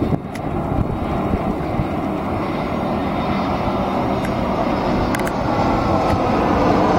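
Arriving airliner's engines: a steady rumbling roar that grows louder over the last couple of seconds as the aircraft comes closer.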